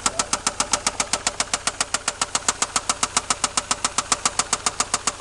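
Toyota 7M-GE straight-six idling with a sharp, regular knock at about eight or nine a second from the top of the engine, which the owners take for a noisy lifter rather than rod knock.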